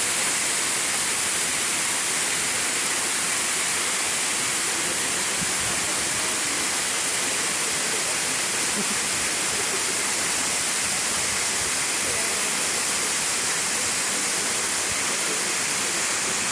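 Steady rushing of falling water, an even hiss-like noise that holds constant throughout.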